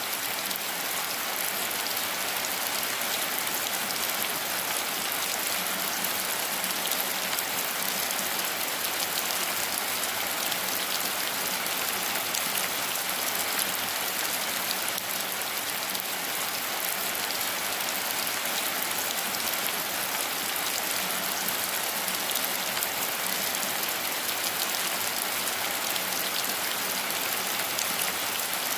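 Steady rain falling: an even, unbroken hiss of many drops, with faint scattered ticks of single drops.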